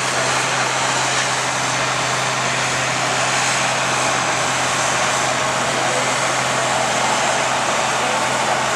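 Large farm tractor engine running hard at full throttle under load while pulling a weight-transfer sled, a steady, unbroken loud noise with a low hum beneath it.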